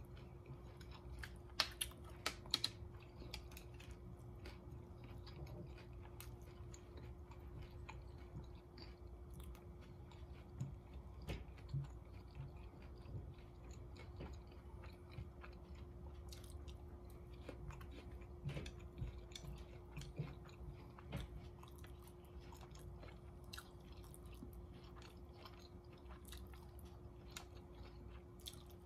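A person chewing and eating close to the microphone, mouthfuls of rice and saucy orange chicken picked up with chopsticks. A few sharp clicks about two seconds in and scattered small clicks are chopsticks against a ceramic plate. A steady faint hum runs underneath.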